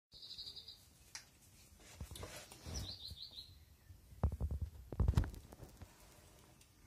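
A bird chirps a short, fast high trill near the start and again about three seconds in, the second one dropping slightly in pitch. Dull thumps and rustling come about four and five seconds in, louder than the chirps.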